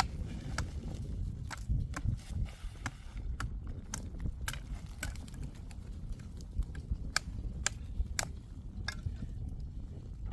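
Scattered light knocks and clicks at an irregular pace over a steady low rumble.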